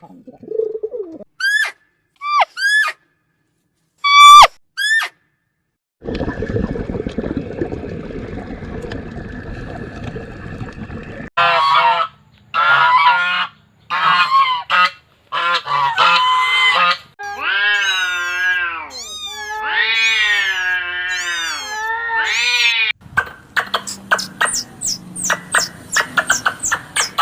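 A run of farm-bird calls edited together with silent gaps between them. There are a few short chirps, then a stretch of rustling noise, then loud harsh honking calls and long arched calls, ending in rapid chattering calls.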